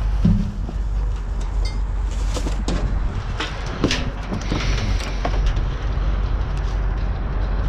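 Scattered knocks and clatters of junk being shifted about in a dumpster, over a steady low rumble.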